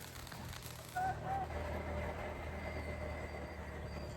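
Motorbike engine running steadily while riding, with two short high chirps about a second in.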